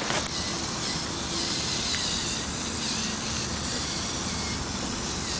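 Small electric motors of a Lego remote-control trial truck running steadily under constant outdoor noise.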